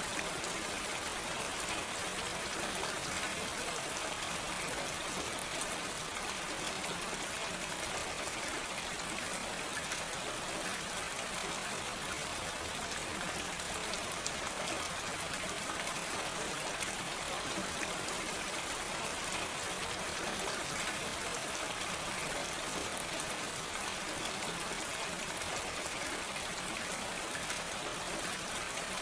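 Steady, gentle rain falling, an even hiss with fine scattered drop ticks and no thunder.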